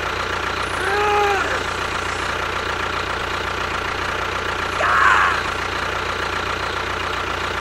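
A small motor running steadily with a high, even whine. Two brief voice-like calls sound over it, about a second in and again about five seconds in.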